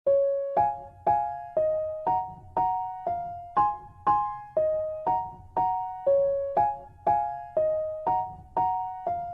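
Background music: a soft keyboard melody of evenly spaced notes, about two a second, each note fading before the next.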